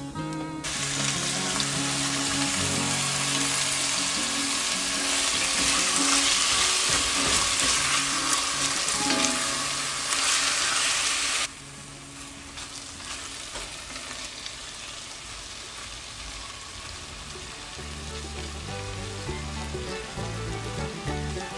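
Raw chicken pieces sizzling loudly in hot oil in a cast-iron pot, the sizzle starting suddenly about half a second in as the chicken goes in. About eleven seconds in it drops abruptly to a quieter, steady frying as the pieces are stirred with a spatula.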